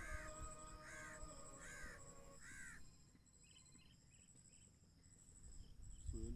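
A bird calling repeatedly, four calls a little under a second apart, then falling quiet, leaving only faint high chirps.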